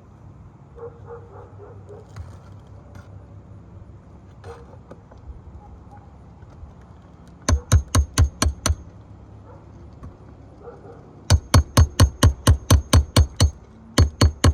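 Hammer blows in quick, even runs of about six a second, each with a bright ring: a run of about eight a little past halfway, then a longer run near the end, typical of hand-nailing during a shingle repair.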